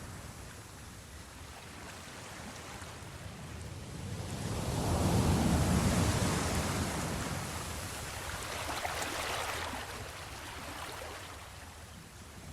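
Ocean waves washing onto a shore: the surf noise swells about four seconds in and peaks, a second smaller wave breaks near nine seconds, then it ebbs.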